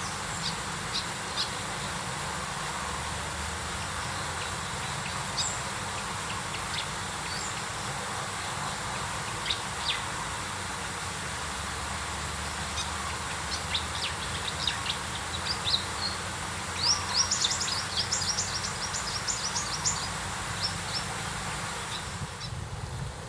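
Birds chirping: scattered short, high chirps over a steady background hiss, with a quick run of rapid chirps about three-quarters of the way through.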